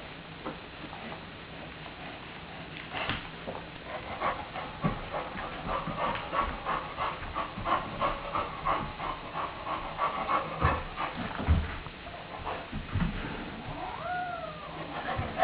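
A cat yowling in a long, wavering cry, the defensive warning of a cat being harassed by a puppy. A few dull thumps follow, and near the end comes a short cry that rises and falls.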